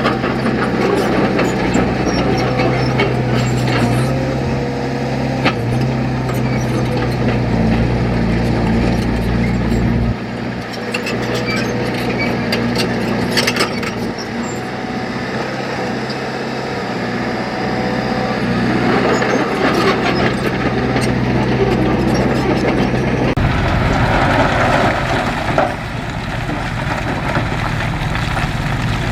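Heavy diesel engine of earthmoving machinery running steadily, with scattered knocks and clanks. The engine note drops away about a third of the way in, and a different, rougher engine rumble comes in near the end.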